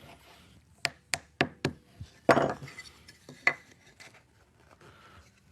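Sharp knocks and clicks of hard objects being handled: four quick clicks close together, then a louder, longer knock with a short rattle about two seconds in, and one more click later.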